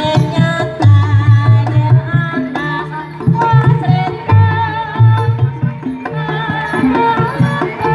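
Live Banyumasan traditional ensemble music: kendang hand drums beating deep strokes under a wavering high melody line.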